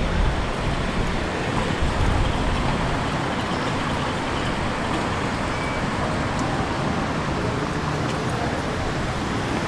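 Steady road traffic noise: a continuous wash of passing vehicles with no single event standing out.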